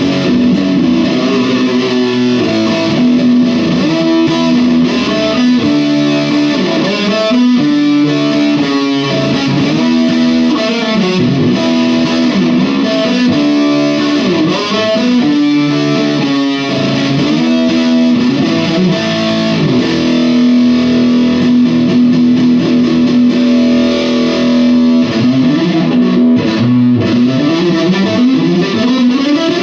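Electric guitar played through a TC Electronic Grand Magus distortion pedal into a Blackstar Debut 50R amp: distorted riffs and lead lines with held, bent notes, sliding upward near the end.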